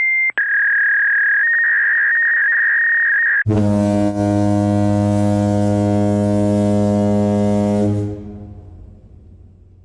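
A steady high electronic beep tone for about three seconds, stepping up slightly in pitch partway through, then a deep foghorn blast that holds for about four and a half seconds and fades out.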